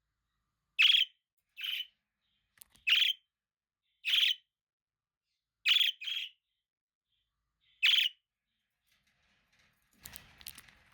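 Budgerigar (parakeet) giving about seven short, high chirps, single or in quick pairs, a second or so apart. A brief scratchy rattle comes near the end.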